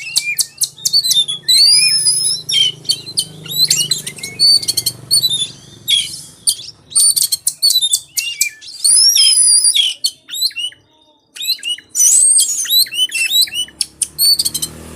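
Oriental magpie-robin in heated, continuous song: a rapid, varied run of whistles, rising and falling notes and rattling clicks, broken by a short pause about ten seconds in.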